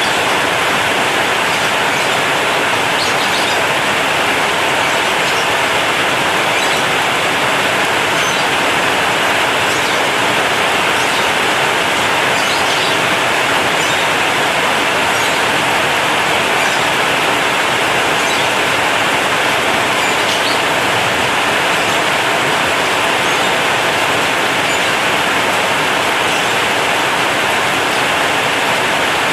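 Heavy rain on a corrugated zinc sheet roof, a steady, dense hiss of drops with no letup.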